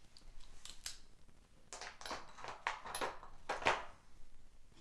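Small hand tools being handled: a few irregular metal clicks and short scraping swishes, the loudest about three and a half seconds in.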